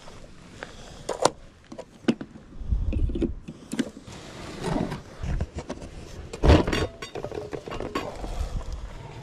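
Irregular clicks, knocks and clinks, with a few low thumps, the loudest a little past halfway.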